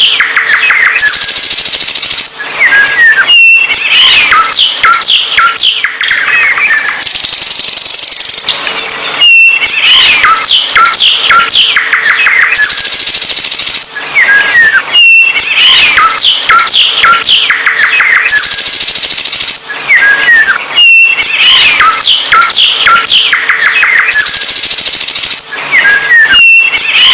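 A songbird singing loudly in a busy run of chirps, rapid trills and whistled glides. The same song sequence repeats about every six seconds.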